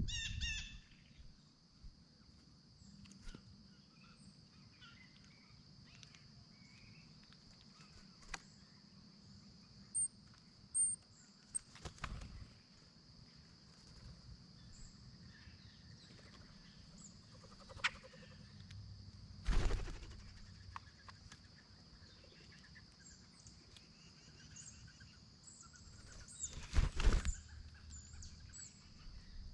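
Scattered faint bird chirps over a steady high-pitched hum, broken by a few sharp knocks and bumps, the loudest about two-thirds of the way through and near the end.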